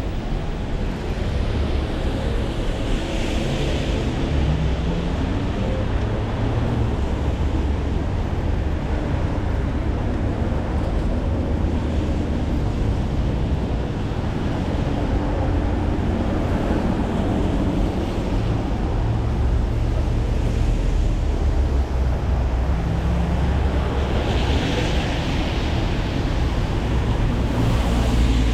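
Rainy city-street traffic: vehicles running over wet roads under a steady low rumble of wind buffeting the microphone. A louder hiss swells about three seconds in and again near the end.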